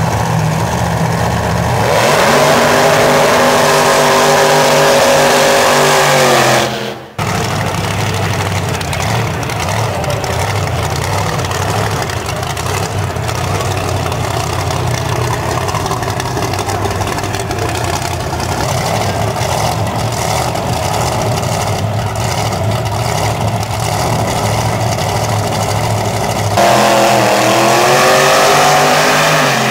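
Wheelie drag truck's engine: about two seconds in it runs up loud, its pitch climbing and then easing off, and cuts off abruptly near seven seconds. A long stretch of steady engine running follows, and near the end the engine runs up loud again.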